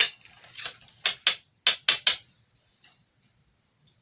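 Utensils clicking sharply against a plate, about six quick taps in the first two seconds and one fainter tap near three seconds, as pieces of sashimi are picked up for eating.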